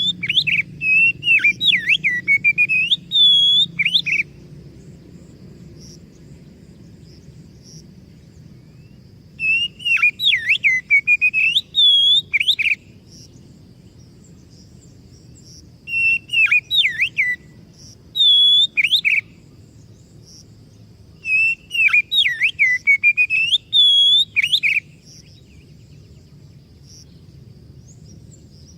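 Oriental magpie-robin (kacer) singing in four bursts of a few seconds each: loud whistled phrases with sweeping up-and-down notes, separated by pauses of several seconds, over a faint steady low hum.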